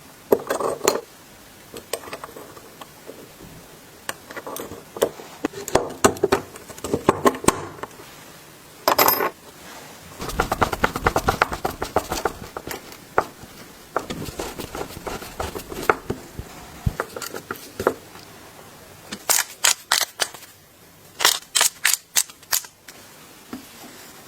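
Clicks, knocks and clatter of tools and small parts being handled on a workbench, with a denser rattling stretch in the middle and a quick run of sharp clicks near the end.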